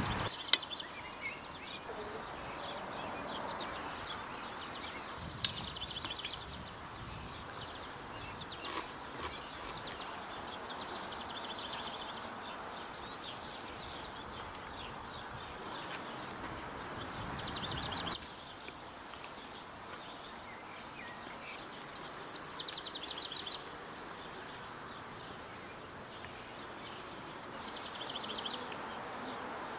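Songbirds chirping and trilling in short phrases every few seconds over a steady outdoor background hiss, with a few sharp clicks.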